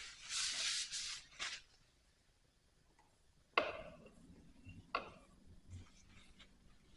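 Hands and tools working on a small engine: a scraping rub for about a second, a brief second scrape, then two sharp clacks of hard parts, the first with a short ringing tail.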